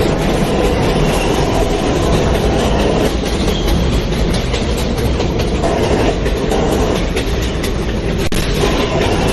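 Subway train running between stations, heard from inside the car: a steady rumble and rattle of the wheels on the track.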